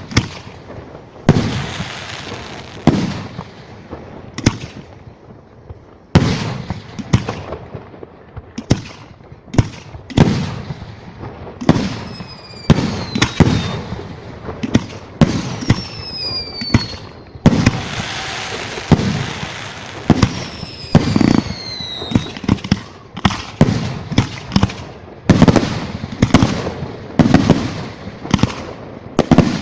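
Fireworks display: a steady run of shell bursts, one or two bangs a second. Partway through comes a stretch of dense crackling, along with several whistles that fall in pitch.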